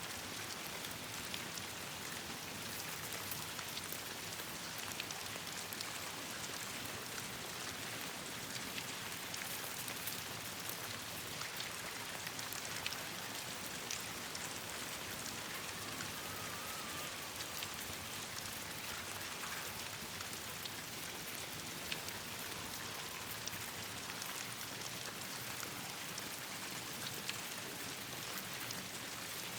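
Steady rain falling on leaves and branches, a constant even patter. Scattered small ticks and pops are mixed in, the crackling of a campfire.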